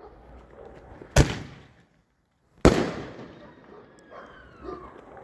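Turbo Roman candle shots going off: two sharp bangs about a second and a half apart, each trailing off with an echo.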